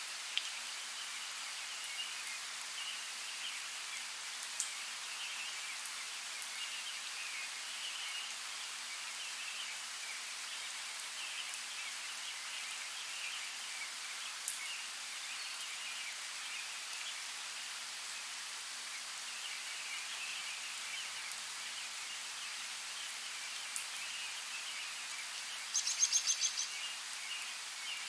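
Steady rain hiss with occasional sharp drip ticks and a busy chirping layer behind it. A brief rapid chattering call stands out near the end.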